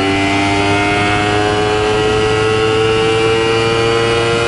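2020 Honda CBR250RR's parallel-twin engine under hard acceleration, its revs climbing steadily in one gear toward the top of its range.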